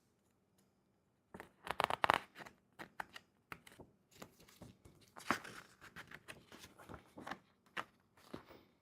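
Packaging being torn and rustled by hand while unpacking, in a quick run of irregular crackles and scrapes that starts about a second and a half in.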